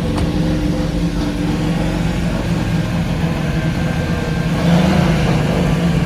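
Car engine running steadily, getting a little louder for a moment about four and a half seconds in.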